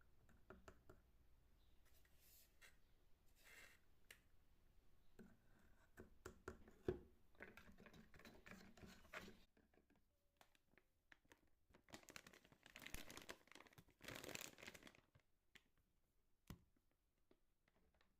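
Faint rustling and scraping handling sounds, with a sharp knock about seven seconds in and a smaller one near the end.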